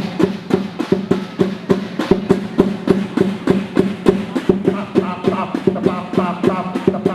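Chinese lion dance percussion: drum and cymbals beating a fast, steady rhythm over a sustained low tone, with a high wavering melody joining about five seconds in.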